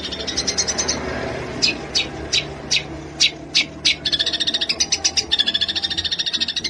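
Songbird calls: a fast rattling trill, then a run of sharp separate notes about three a second, then the fast trill again.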